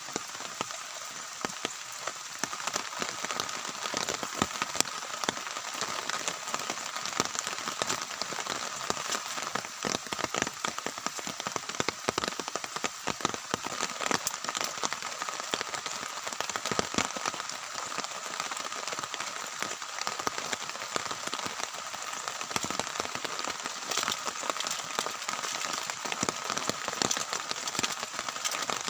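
Heavy rain falling steadily, a dense, irregular patter of drops striking a surface.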